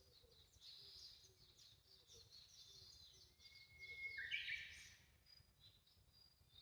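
Wild birds singing, several songs overlapping in quick, high chirping phrases, with one louder call of lower sweeping notes about four seconds in.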